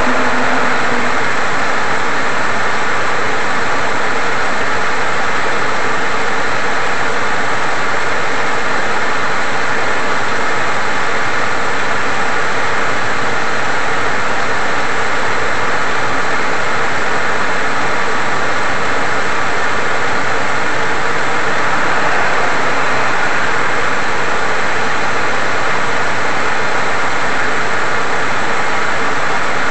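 Autorack freight cars rolling past: the steady, unbroken noise of steel wheels running on the rails.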